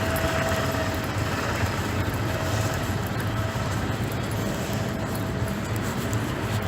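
Steady rain noise with a faint steady hum underneath, much like distant traffic or an engine.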